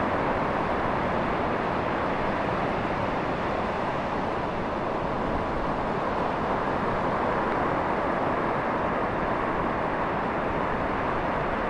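Steady, even rushing noise of the seashore: surf and wind, with no distinct events.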